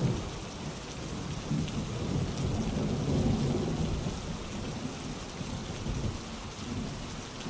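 Steady rainfall, with a low rumble of distant thunder swelling and fading in the middle.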